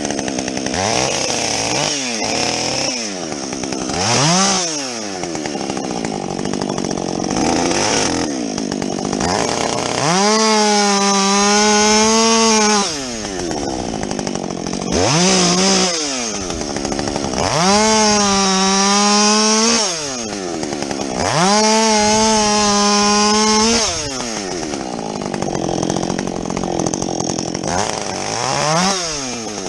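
Husqvarna 562XP two-stroke chainsaw with a modified muffler, bucking logs. It gives short throttle blips, then four long spells at full revs, dropping back toward idle between them.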